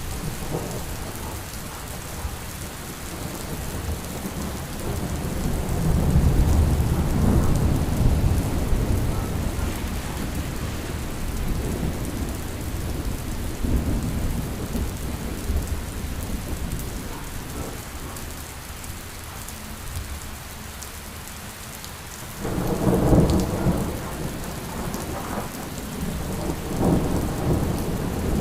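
Steady rain with thunder. A long low rumble swells a few seconds in, and a sharper, louder peal comes later, with another rumble near the end.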